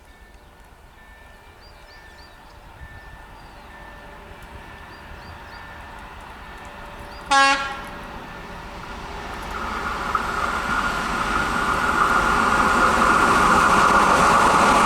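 Class 754 'Nurek' diesel locomotive approaching at the head of a passenger train, its noise growing steadily louder. It gives one short horn blast about halfway through. Birds chirp faintly at the start.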